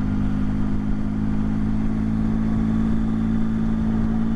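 Motorcycle engine running at a steady cruise, its pitch holding nearly level.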